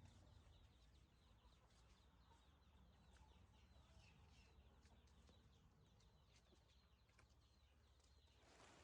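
Faint chirping of birds: many short, quick falling chirps over a low background hum, with a rush of noise starting near the end.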